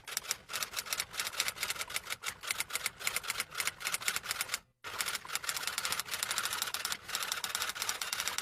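Rapid typing on keys: a dense, fast run of clicks, broken by a brief pause a little under five seconds in.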